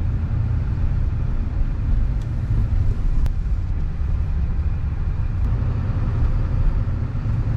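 A motor vehicle running: a steady low rumble, with a faint click about three seconds in.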